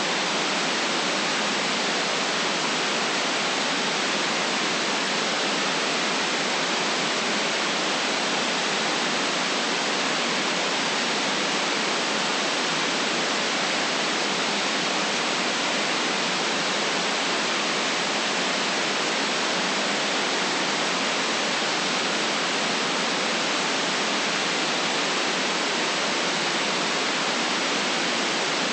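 Steady white noise: an even, unbroken hiss with no change in level or pitch, its deepest bass and highest treble cut away.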